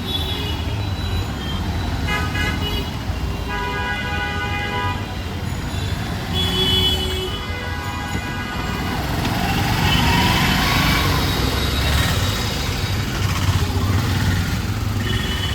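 Road traffic: vehicle horns honking in several short blasts over a steady rumble of engines, with a louder rush of passing-vehicle noise about ten seconds in.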